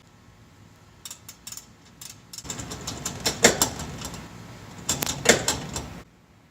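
Metal clattering and knocking of hand tools and exhaust parts being worked on, with a few sharp clanks. It cuts off suddenly near the end.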